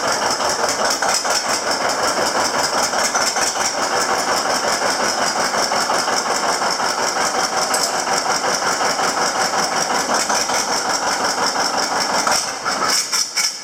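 John Deere 720 tractor's two-cylinder engine running with a steady, even beat, then falling away near the end.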